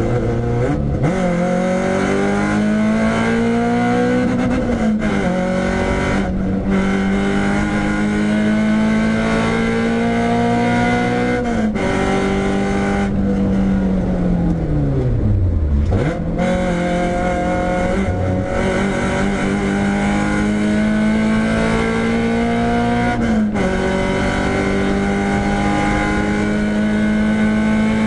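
Renault Clio 172's four-cylinder engine driven hard on track, its revs climbing through the gears with sudden drops at the upshifts about a second in, around five seconds and around twelve seconds. The revs then fall away steeply as the car slows, before climbing again to another upshift near the end.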